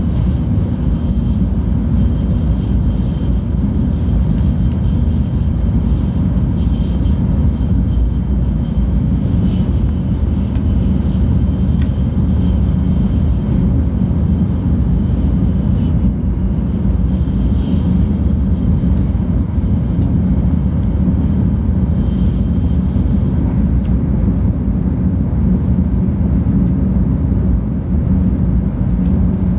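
Cabin noise of a 700 series Shinkansen running on the Tokaido line, heard from inside the passenger car: a loud, steady, deep rumble with a faint high whine above it.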